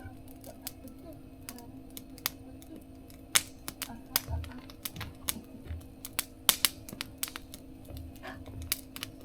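Wood fire crackling in a mesh fire stove: irregular sharp pops and snaps, with a few low thumps about four to six seconds in.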